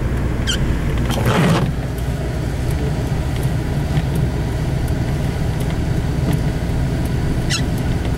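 Steady low rumble inside a vehicle's cabin as it drives slowly through deep snow: engine and tyre noise, with a brief rush of noise about a second and a half in and a couple of faint clicks.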